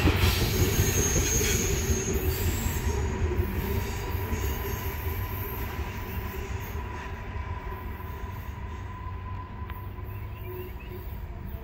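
Loaded coal train's hopper cars rolling away on jointed rail, the wheel rumble fading steadily as the train recedes, with a thin steady wheel squeal as the cars take the curve.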